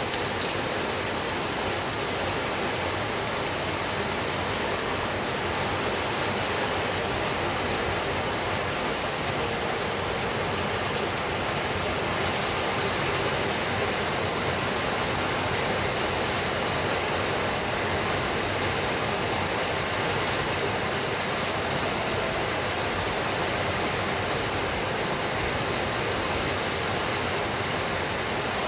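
Steady rainfall: an even, continuous hiss of rain with no thunder.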